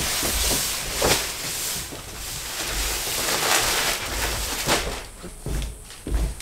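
Plastic-wrapped insulation bundles rustling and crinkling as they are carried and handled, with a few louder swishes and low knocks and thuds.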